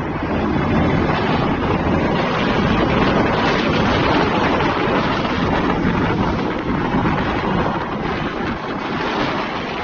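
Wind buffeting the microphone over the steady rumble of road traffic and truck engines.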